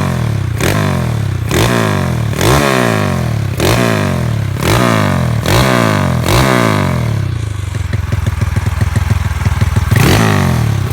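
Motorcycle fitted with a Heng Suphan aftermarket exhaust being revved in quick throttle blips, about one a second. It drops to a rough, popping idle for about three seconds, then blips once more near the end.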